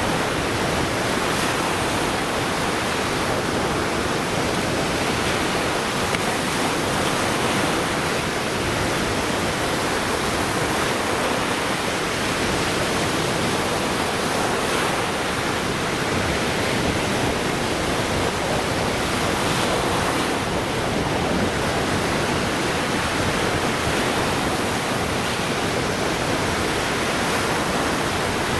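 Lake Michigan waves breaking on the shore, a continuous, even rush of surf with no distinct pauses between waves.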